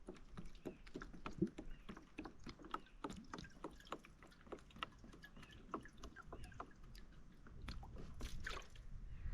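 Faint water gurgling with many small irregular pops and clicks of air bubbles in a radiator's cooling system, as the air is bled out or water is poured in.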